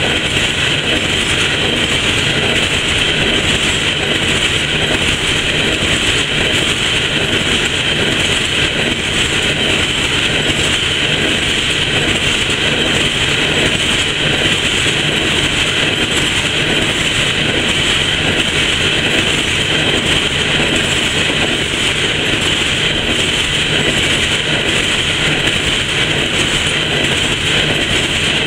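Freight train of coal hopper cars rolling steadily past, the wheels running over the rails.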